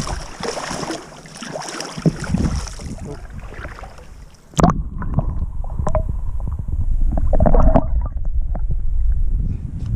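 Flowing river water with wind buffeting the microphone. About halfway through, the sound changes abruptly to a heavy low wind rumble with scattered knocks and handling noise.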